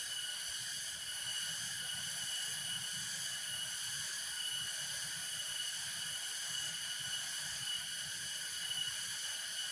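Steady insect chorus: a shrill, unbroken drone at several high pitches at once, with no pauses. A faint low rustle runs beneath it.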